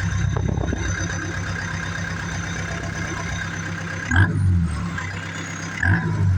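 Branson 7845 tractor's four-cylinder turbo diesel running, revved up sharply twice, about four and six seconds in. A high turbo whistle falls away in pitch after each rev.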